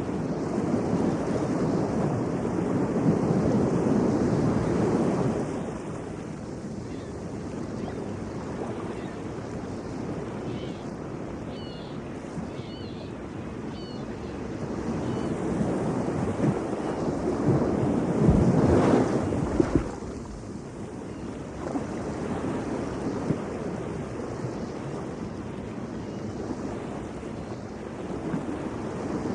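Atlantic Ocean surf breaking on a beach: waves swell and wash in twice, once in the opening five seconds and louder about 15 to 20 seconds in, each dropping away fairly quickly, with wind buffeting the microphone.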